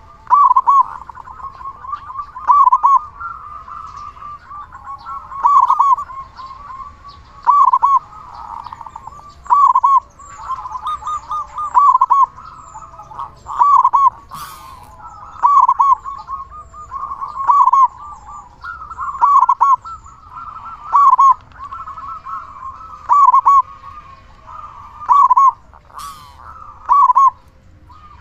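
Local zebra dove (perkutut) singing steadily: a loud, ringing cooing phrase repeated about every two seconds, with softer warbling coos between the phrases. A couple of brief sharp clicks about halfway through and near the end.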